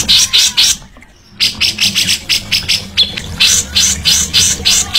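A caged songbird calling in a rapid series of short, harsh high notes, about three a second, with a brief pause about a second in, over a low steady hum.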